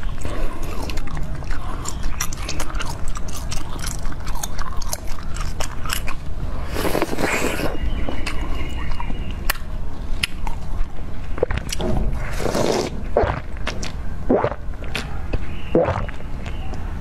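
Close-miked chewing and biting of a corn-cob-shaped jelly, with many short mouth clicks and smacks.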